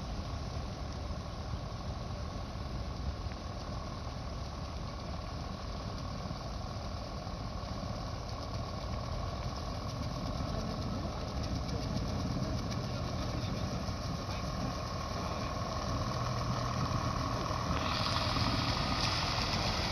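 Engines of decorated trucks (dekotora) running low as the convoy rolls in, growing gradually louder, with a thin steady high tone. A hiss comes in suddenly near the end.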